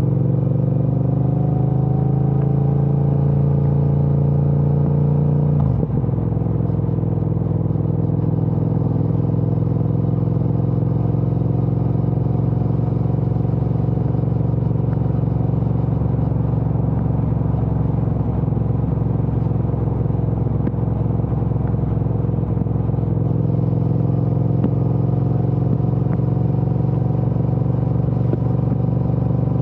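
Triumph Speed Twin 1200's parallel-twin engine through a Vance & Hines aftermarket exhaust, heard from the rider's seat. The revs climb for about six seconds and drop sharply, then the engine runs steadily, rising gently later on.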